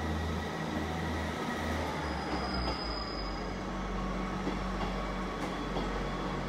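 Train running with a steady low mechanical hum, which shifts lower in pitch about two seconds in.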